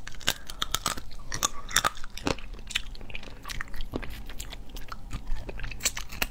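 Close-miked eating of cooked crab: biting and chewing, with many sharp, irregular crunches and clicks.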